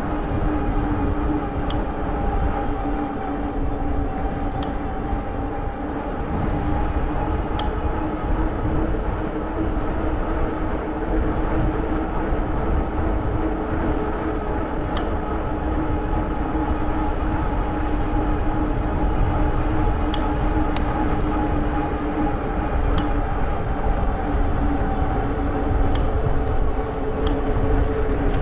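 E-bike electric motor whining steadily at cruising speed over wind rumble on the microphone, with occasional sharp ticks.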